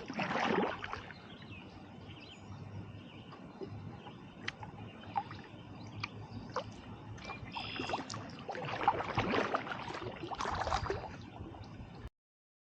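Kayak paddle strokes splashing in the water, with a quieter stretch of small drips and ticks in the middle; the sound cuts off abruptly near the end.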